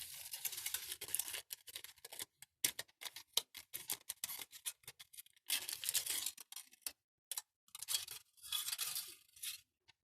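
Mandarin peel being torn and pulled apart close up: bursts of tearing and crackling with sharp little clicks, broken by short pauses, stopping just before the end.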